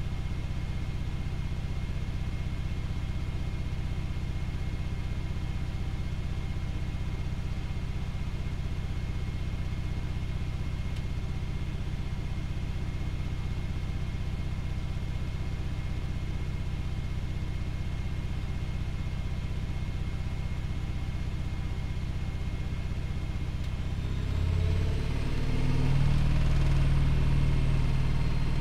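Privileg Multispar 5110 washing machine's drum spinning with a steady motor hum. About 24 seconds in, it gets louder and higher as the spin speeds up.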